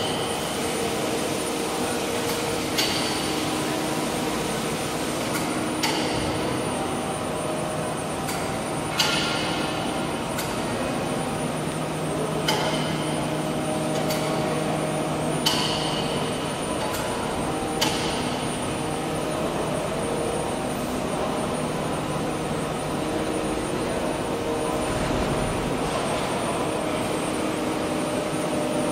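CNC wood lathe running its finishing pass with a 6 mm ball-nose cutter: a steady machine hum, with a sharp ringing click about every three seconds through the first two-thirds.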